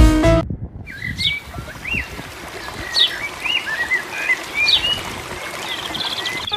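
Small birds chirping, a string of short rising and falling calls over a steady outdoor hiss. Music cuts off just after the start.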